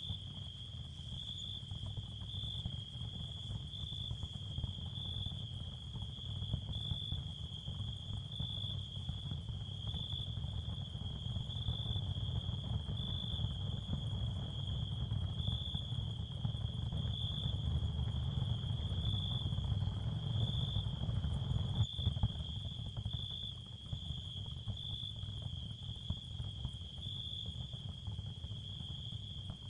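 Ambient sound-therapy soundscape: crickets trilling in a steady high chirr with a faint regular pulse, over a low rumbling noise that swells and then eases off. A single faint click about two-thirds of the way through.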